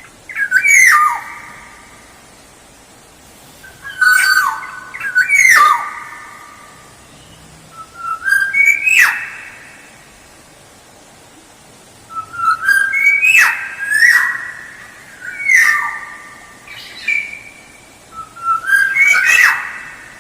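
Kepodang (black-naped oriole) singing: about six loud, fluty whistled phrases every three seconds or so, each a few notes that end in a sharp downward sweep, with a lingering echo after each phrase.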